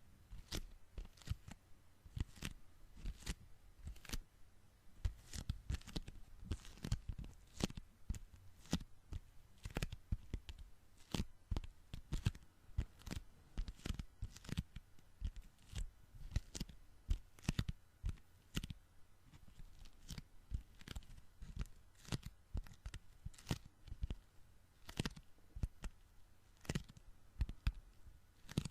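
Sticky hands pressed together and pulled apart close to the microphone, giving a quick irregular run of short tacky peeling clicks and pops, a few each second.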